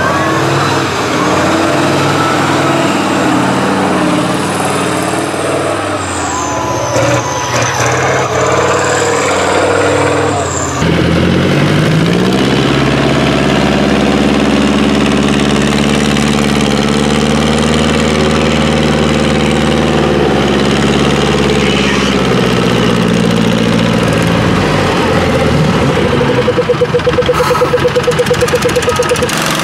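Tractor engine running, mixed with other noise at first. About a third of the way in it climbs in pitch, then holds a steady, even drone. Near the end it turns to a fast, regular chugging.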